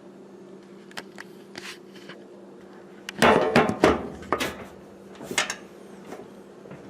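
Metal tools clattering and knocking as heavy items are picked up and set down on a work surface, a loud cluster of clanks a few seconds in and another knock a second later. A steady low hum runs underneath.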